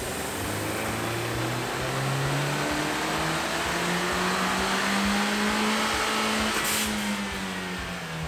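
Turbocharged 1.5-litre four-cylinder of a 2020 Honda Civic Si pulling under load on a hub dyno, revs climbing through the run. Near the end there is a short hiss, the vent-to-atmosphere blow-off valve releasing as the throttle closes, and then the revs fall away.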